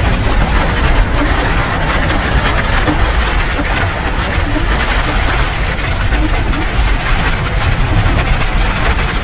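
Steady rain, an even hiss with a deep low rumble underneath.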